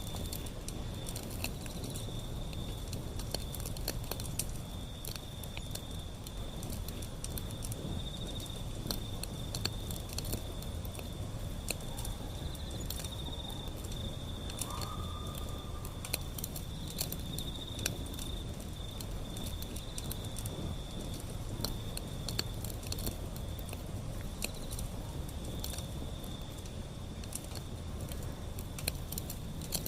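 Wood fire burning, with a steady low rumble and many sharp, irregular crackles and pops from the burning wood. A continuous, slightly pulsing high insect trill, like a cricket, runs underneath, and a brief higher tone sounds once about halfway through.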